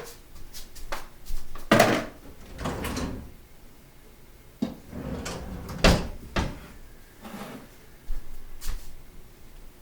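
Kitchen clatter: a string of separate knocks and clunks of cookware and utensils at irregular intervals, loudest about two seconds and six seconds in.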